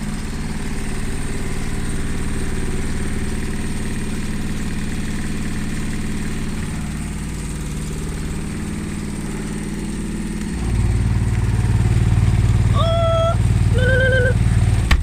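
Indesit washing machine spinning with its door open: steady motor hum and drum rumble that grows noticeably louder and heavier about ten and a half seconds in. The motor's brushes are worn and need replacing. A few short voiced calls sound near the end.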